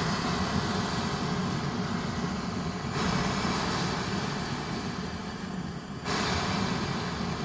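Swiss army petrol vaporising burner (Benzinvergaser-Brenner) burning with a steady rushing flame noise. It surges twice and then dies down slowly as the fuel tap is turned off.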